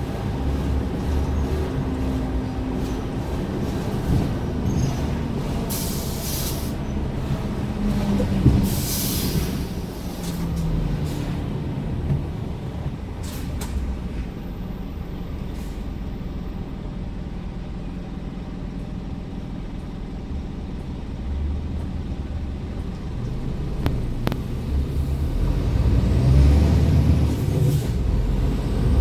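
Scania R410 truck's diesel engine running on the road, with two short hisses of air from the air brakes about six and nine seconds in. The engine settles lower through the middle and pulls harder again near the end.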